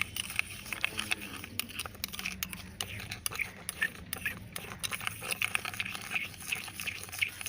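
Sugar and shampoo being stirred into a thick, gritty paste, making an irregular run of small sticky clicks, crackles and squelches.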